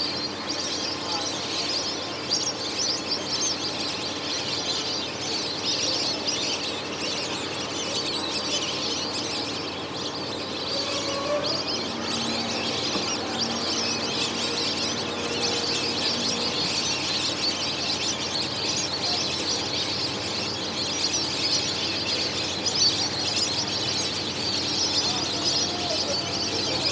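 A large flock of birds calling all at once: a dense, continuous chatter of many overlapping high chirps and whistles.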